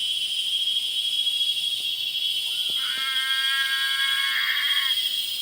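Evening frog chorus: a steady, high-pitched, unbroken calling. About three seconds in, a lower held call of several steady tones joins for about two seconds, then stops.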